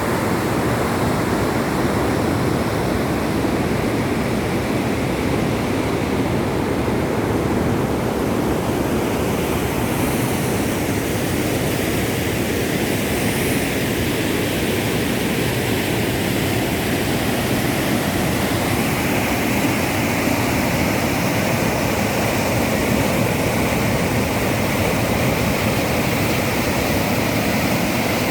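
River waterfall rushing: a steady, loud roar of falling and churning water.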